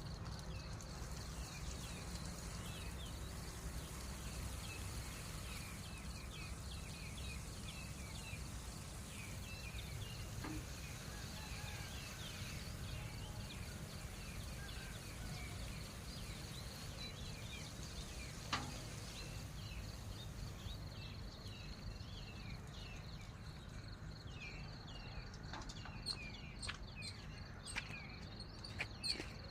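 Rural outdoor ambience: many small bird chirps and a steady, pulsing insect trill over a low rumble, with a few sharp clicks near the end.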